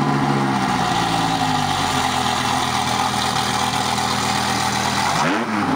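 Dodge Viper's V10 engine idling steadily just after start-up, then a change in revs near the end, with the pitch sweeping up and down.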